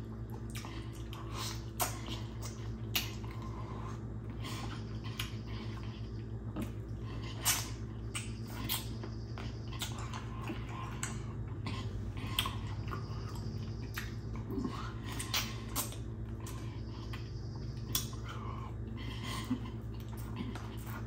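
Close-up mouth sounds of eating chicken off the bone by hand: irregular wet clicks, smacks and chewing over a steady low hum.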